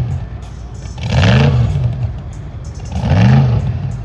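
Car engine revved up and let fall back twice, about two seconds apart, its pitch and loudness rising and dropping with each rev.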